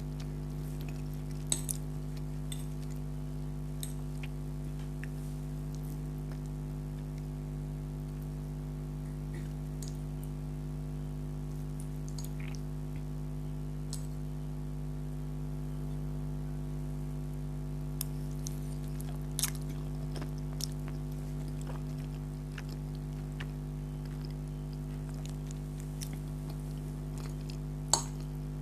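Chewing of spaghetti, with scattered small clicks and taps from mouth and fork, over a steady low hum.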